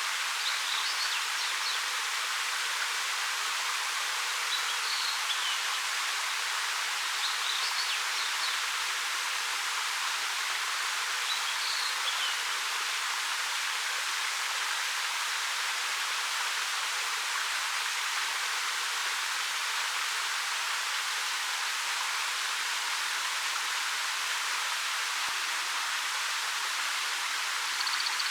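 A 13 m waterfall pouring over dark rock, a steady hissing rush of falling water. A bird chirps faintly a few times over it.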